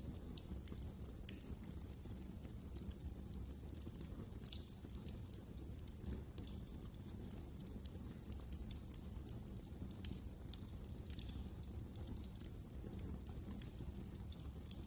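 Wood fire crackling: irregular sharp pops and ticks over a low, steady rumble.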